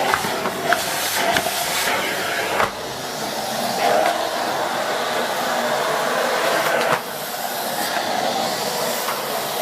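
Miele S8 canister vacuum cleaner running with its powered floor head working over a mat, a steady suction noise that dips abruptly twice.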